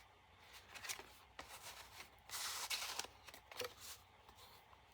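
Paper rustling and scraping as a paper tag is slid out of an envelope and handled: several short rustles, with one longer, louder scrape about two and a half seconds in.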